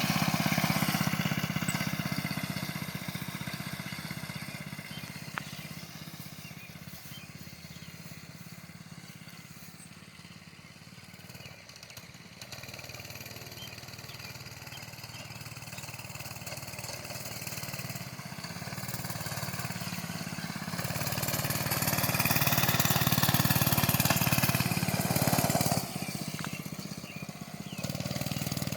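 Mini bike's 98cc gasoline engine running as the bike rides away, its sound fading to a low about a third of the way in, then growing louder again as it comes back.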